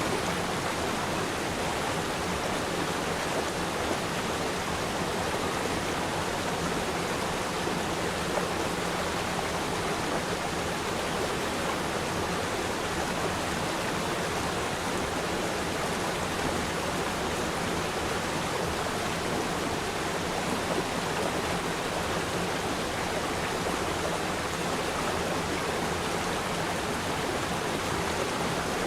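A river stream flowing and rushing over rocks, a steady, even water noise with no other sounds.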